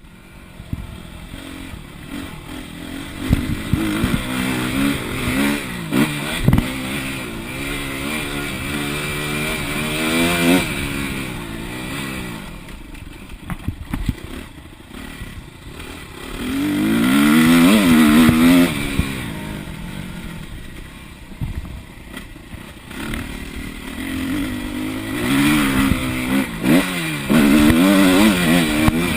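Motocross motorcycle engine revving up and down as the throttle is opened and closed, its pitch rising and falling again and again, with scattered sharp knocks and clatter.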